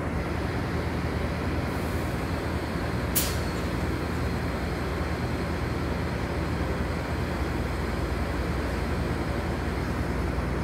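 Passenger train's engine running steadily beneath the camera, a low even hum over a rumble, with a brief sharp hiss of air about three seconds in.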